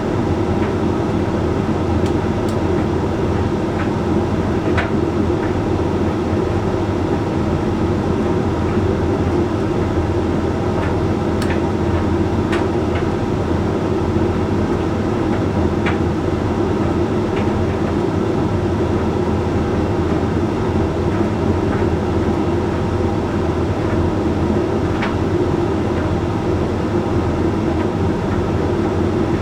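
Hoover Link X Care HLX C10DRGR condenser tumble dryer running mid-way through its Whites cycle: a steady hum and rumble from the turning drum, motor and fan, with a few faint clicks here and there.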